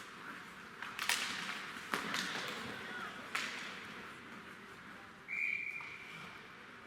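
Ice hockey game sounds: three sharp cracks of sticks, puck or boards over the hiss of skates on ice, then one steady referee's whistle blast about a second long past the five-second mark.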